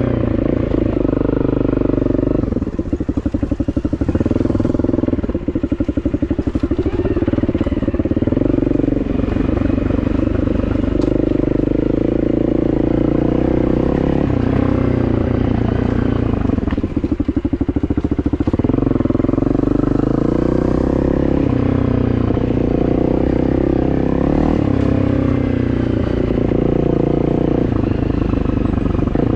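Honda CRF250 single-cylinder four-stroke dirt bike engine running as the bike is ridden, the revs rising and falling. The revs drop low a few times, around three seconds in and again around seventeen seconds, and the separate firing beats come through.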